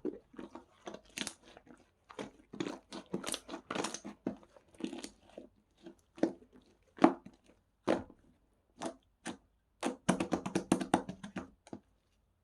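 Irregular short crunching and crackling sounds, with a quick flurry of them about ten seconds in.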